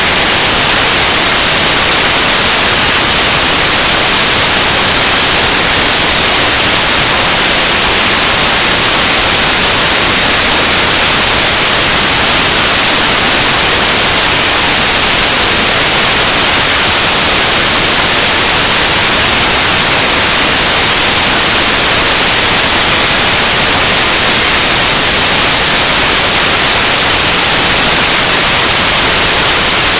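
Noise music: a loud, unchanging wall of harsh static hiss, brightest in the treble, with no rhythm or pitch.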